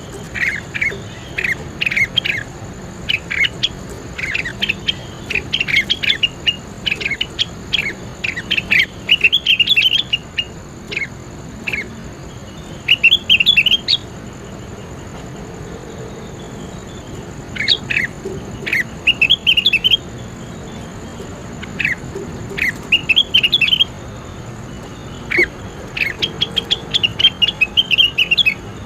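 A songbird singing in rapid bursts of sharp chirps and harsh, squawky sweeping notes, phrases a second or two long with short gaps between them, over a faint steady high whine.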